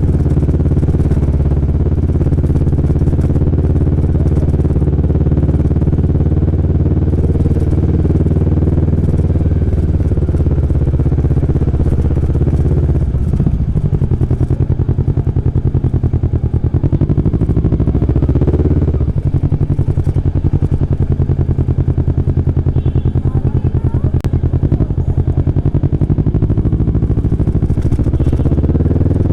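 Kawasaki Vulcan S 649 cc parallel-twin engine running under way. The engine note holds steady, drops about 13 seconds in and climbs again about 18 seconds in as the revs rise.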